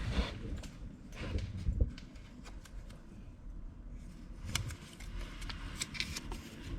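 Handling noise: scattered light clicks and rustling, with a few sharper clicks between about four and a half and six and a half seconds in.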